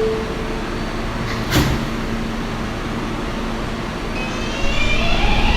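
New York subway car with the door chime ending, then the sliding doors shutting with a single thud about a second and a half in. Near the end the traction motors start to whine, rising in pitch as the train pulls out of the station.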